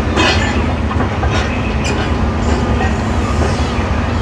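Heavy diesel demolition machinery running steadily with a low rumble, with a few sharp clanks and crashes of debris in the first two seconds.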